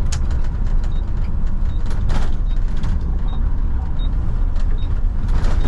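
Diesel engine of a Mack front-load garbage truck running, a steady low rumble heard from inside the cab, with a few sharp rattles or knocks over it.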